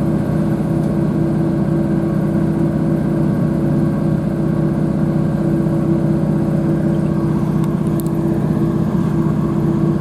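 Northern Class 156/150 diesel multiple unit heard from inside the carriage: its underfloor diesel engine drones at a steady speed over the rumble of the wheels on the rails.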